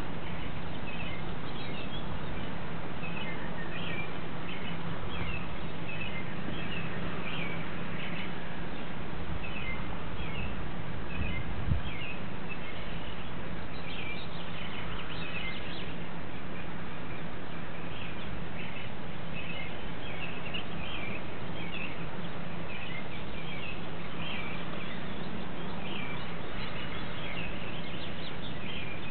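Small birds chirping again and again over a steady background hiss and low hum, with one brief low bump near the middle.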